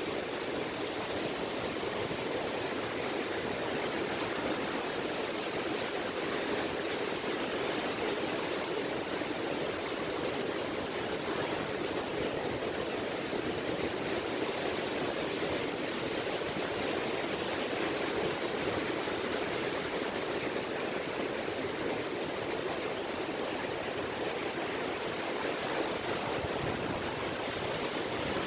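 Small ripple waves of the Seto Inland Sea lapping on a beach, making a steady, even wash with no separate breakers.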